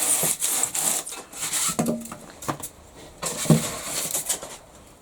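Plywood edge being rubbed down by hand: long scraping strokes, with a few light knocks between them, trimming the panel until it fits.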